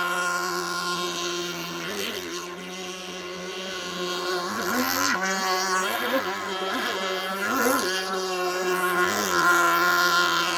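Small nitro engine of an RC jet-ski running at speed, its pitch rising and falling several times in the middle as the throttle is worked.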